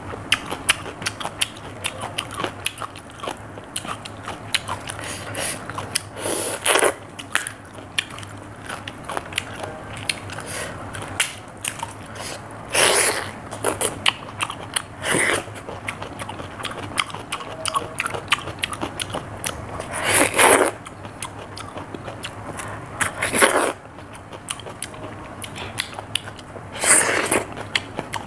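Close-up chewing and biting of raw cucumber: a steady run of wet, crisp crunching clicks, broken about every three to seven seconds by a louder, longer crunching burst, six in all.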